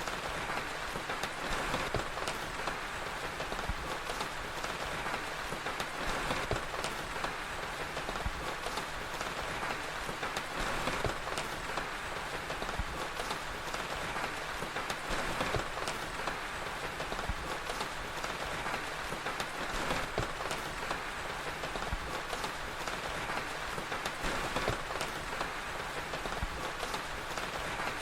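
Steady rain hiss with scattered pops and crackles of a wood fire.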